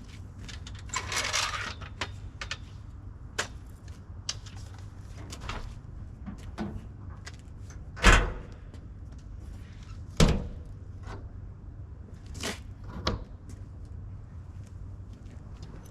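Packing-up noises around a pickup truck: scattered clicks, knocks and handling rustles, with two heavy thumps about two seconds apart in the middle, over a low steady rumble.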